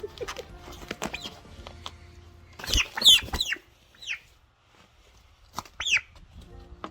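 Poultry squawking: a loud burst of several harsh calls about three seconds in, a shorter call a second later, and a single rising-and-falling call near the end, with a few knocks in between.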